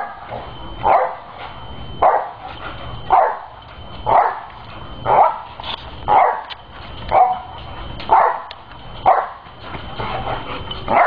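Dog barking about once a second in a steady rhythm, bouncing on a trampoline.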